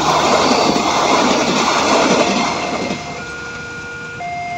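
Passenger train passing a level crossing, its wheels rushing and rumbling on the rails for about three seconds and then fading as it pulls away. Under it and then alone, the crossing's electronic warning alarm sounds steadily, switching between two tones about once a second.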